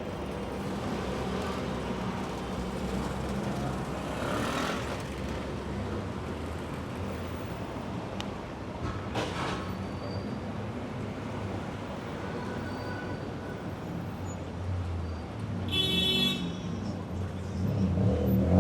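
Busy city street traffic: a steady low rumble of passing engines, with two brief hisses partway through and a short sharp tone near the end as a heavier vehicle draws close.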